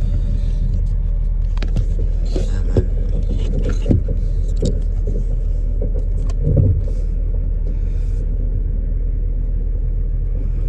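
A motor vehicle engine running steadily at idle: a low, even rumble, with a few short knocks and clunks over it, the loudest about two-thirds through.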